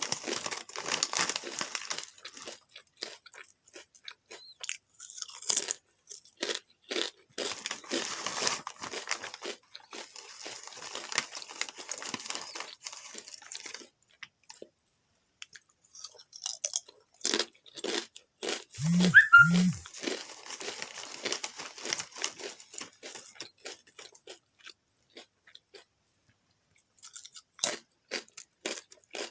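Potato chips being bitten and chewed: sharp crisp crunches in bouts, with short pauses between mouthfuls and a near-silent gap a few seconds before the end. About two-thirds of the way through comes a brief low two-part hum, the loudest moment.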